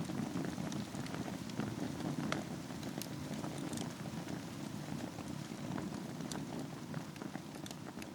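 Wood fire burning in a fireplace over a bed of embers: a steady low rush of flame with sharp crackles and pops scattered irregularly throughout.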